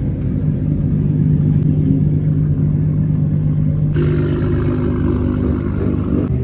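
Car engines idling steadily with a low hum. The sound changes abruptly about four seconds in.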